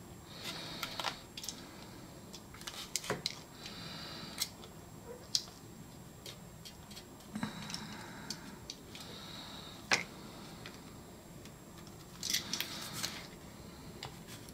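Quiet hand work on a plastic car door trim panel: scattered sharp clicks and taps with short bouts of scraping and rustling, the loudest click about ten seconds in.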